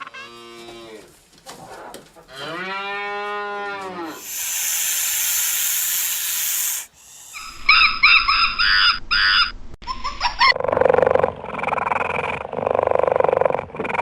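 A series of different animal calls one after another: a cow mooing about two seconds in, its pitch rising then falling, then about three seconds of hiss, a run of high quick chirping calls, and a rough, noisier call over the last few seconds.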